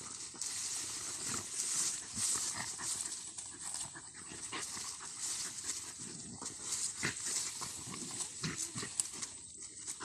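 A dog panting, with scattered small clicks and a steady high hiss behind.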